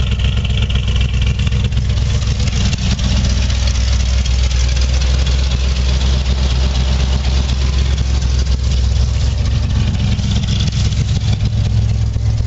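Ford Bronco's V8 engine idling steadily after a cold start, its sound shifting slightly about three seconds in.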